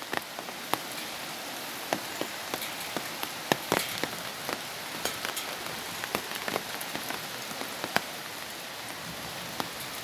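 Steady rain falling, with individual drops ticking irregularly and sharply on a nearby surface.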